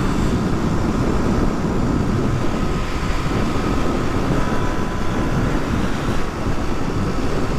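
Wind rush on the microphone while riding a Suzuki DR250S motorcycle, with its single-cylinder engine running steadily underneath at cruising speed.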